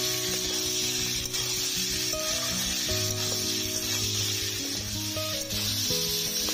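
Ridge gourd, potato and soaked chickpeas sizzling as they fry in mustard oil in a wok, with a metal spatula scraping and stirring through them. Background music plays over it with slow held notes.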